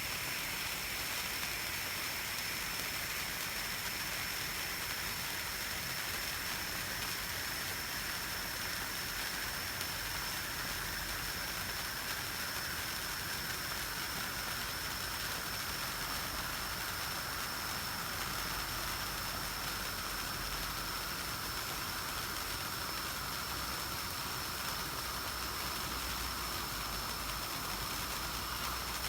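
Pyrotechnic spark waterfall, a 20-tube silver-spark cascade, burning with a steady dense hiss of falling sparks; a faint tone within the hiss slowly drops in pitch.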